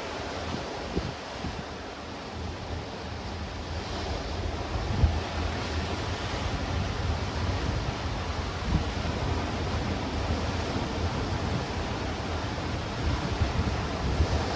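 Sea waves breaking and washing over black rocks and stones on the shore in a steady surf, swelling about four seconds in. Wind buffets the microphone with a few low thumps.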